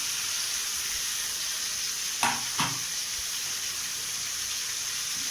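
Onion and ground-spice masala sizzling steadily as it fries in a pan, with two short knocks a little over two seconds in.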